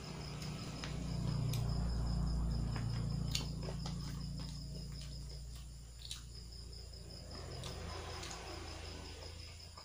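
A cricket chirping in a steady, fast-pulsing high trill over a low rumble, with a few sharp clicks.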